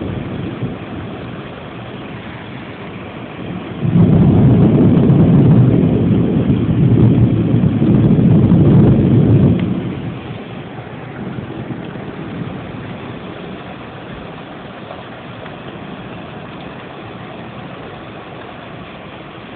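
A long roll of thunder, a low rumble that starts about four seconds in, holds for about six seconds and fades away, over a steady hiss of rain.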